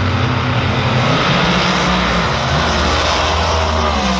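Two drag-race cars running at full throttle down the strip. The loud engine noise holds steady, with engine notes that climb and shift as the cars pull away.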